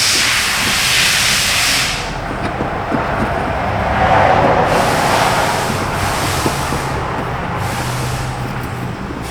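Hissing in several stretches: about two seconds at the start, again from about four to seven seconds in, and briefly near eight seconds, over a low steady hum.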